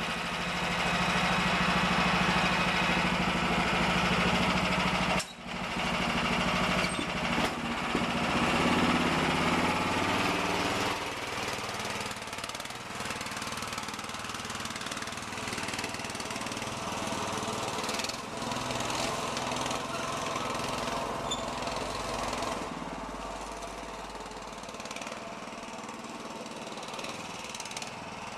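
Mini bike's 16-horsepower small engine running. About five seconds in it dips sharply for a moment, then revs up, and near the end it settles to a quieter, steadier run.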